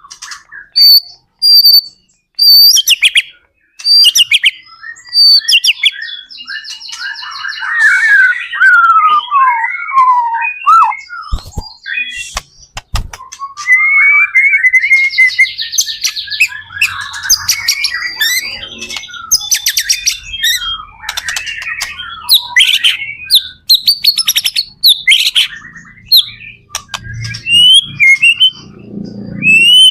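White-rumped shama (murai batu) in full song: a rapid, nearly unbroken stream of varied whistles, downward-sliding notes, buzzy trills and sharp clicking notes, with a brief break about twelve seconds in.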